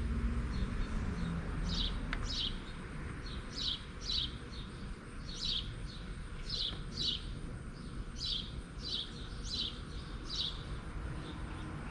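A small bird chirping over and over: short, high chirps, often in quick pairs, about every half second to a second, over a steady low background noise.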